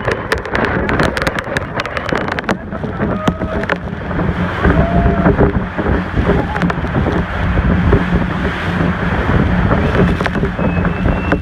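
Motorboat running through rough, rushing water, with wind buffeting the microphone and many sharp clicks and splashes throughout.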